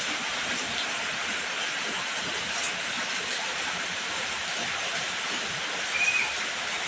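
Heavy rain falling steadily as a dense, even hiss, with a brief high-pitched call about six seconds in.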